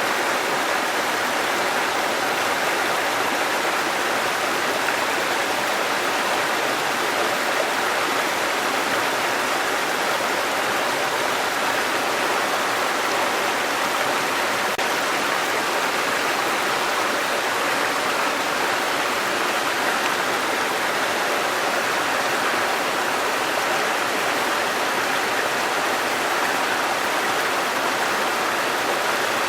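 Waterfall and running stream water rushing in a steady, even noise with no changes.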